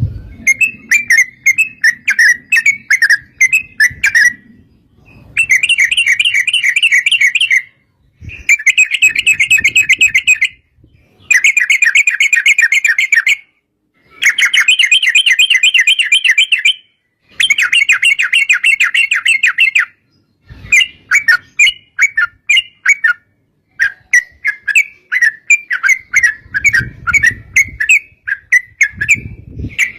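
Yellow-vented bulbul (trucuk) singing. It gives loose series of bubbling notes, then a run of rapid trills of about two seconds each, separated by short pauses. Near the end it goes back to looser chattering notes.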